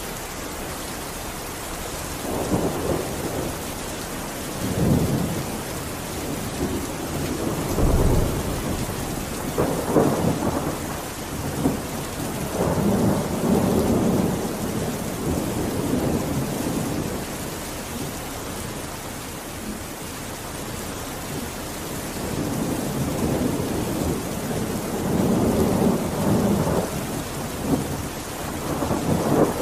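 Steady heavy rain hissing, with low rumbles swelling and fading every few seconds, the deepest about eight seconds in.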